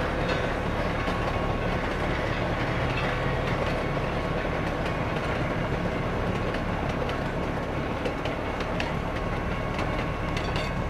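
Narrow-gauge passenger coaches of a steam train rolling steadily past, a continuous rumble with the wheels clicking irregularly over the rail joints.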